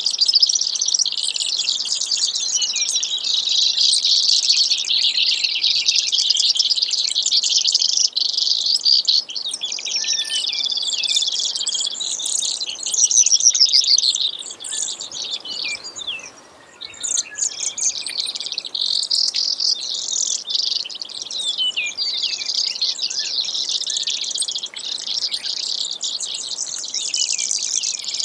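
Brewer's sparrow singing: long, rapid trills and buzzy phrases run nearly without a break, with a short pause about sixteen seconds in.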